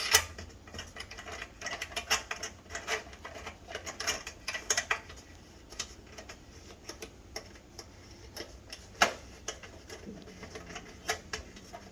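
Irregular light clicks and metallic taps from shower panel fittings being handled and adjusted, with one sharper click about nine seconds in.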